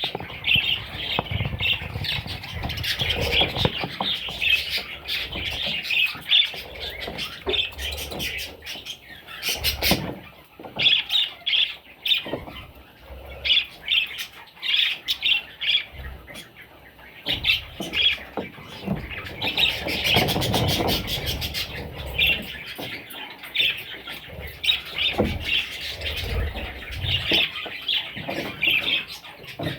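Budgerigars chattering, a dense, continuous stream of short, rapid chirps and squawks from several birds.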